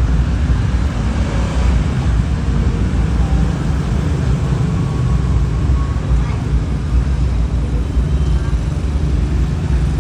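Steady low rumble of outdoor background noise, without distinct events, with faint voices in it.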